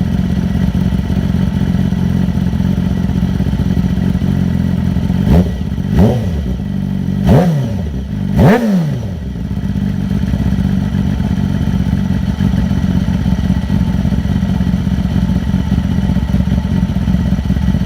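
Motorcycle engine idling as it warms up after a cold start, blipped four times about five to nine seconds in, each rev rising and falling back before it settles to a steady idle.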